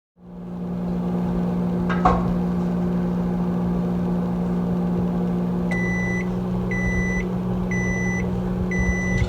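Microwave oven running with a steady hum and a single click about two seconds in. Near the end it sounds four high beeps, about one a second, as its timer runs out.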